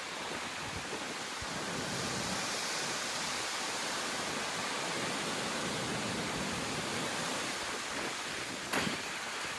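Steady rushing of a windstorm, wind and driving rain, swelling a little about two seconds in, with a short sharp crack near the end.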